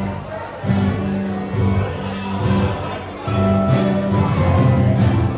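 A rock band playing live: sustained bass notes under regular cymbal hits from a drum kit.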